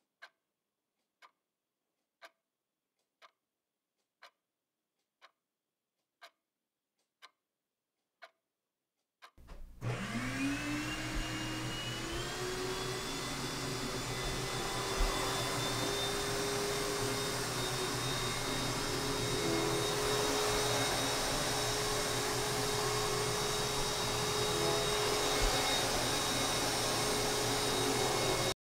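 Slow, even ticking about once a second, then about nine seconds in a vacuum cleaner switches on: its motor whine rises as it spins up and settles into a steady run, stopping abruptly near the end.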